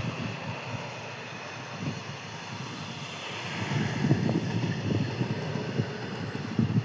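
Steady low rumble and rushing noise of a moving train, with irregular low thuds coming and going.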